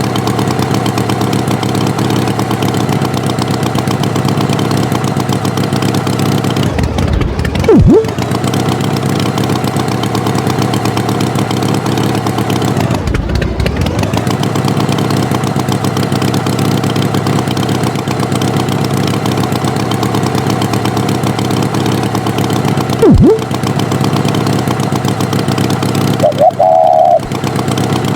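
Tractor engine running steadily, breaking off briefly a few times, with two short very loud pitched sounds over it.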